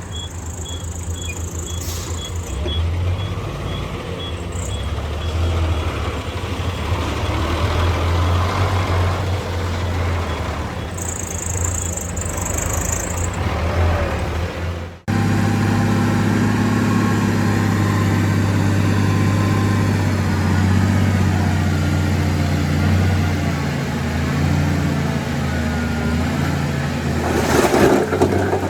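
Heavy diesel engines of earthmoving machinery, a bulldozer and dump truck, running under load with a steady deep hum. A faint high beep repeats about twice a second through the first part, and a short high hiss comes about 11 seconds in. After a cut about halfway through, the engine sound is louder and steadier.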